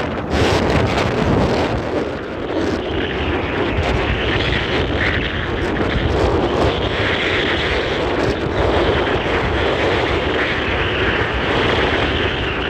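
Army truck on the move: steady engine and road noise.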